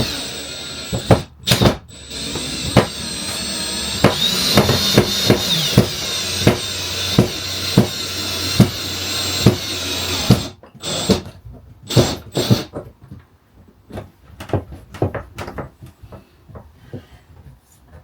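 Power drill running in long bursts, with a high whine and regular knocking. It stops briefly about a second in, then runs again until about ten seconds in. After that there are two short bursts, followed by scattered light clicks and knocks of handling.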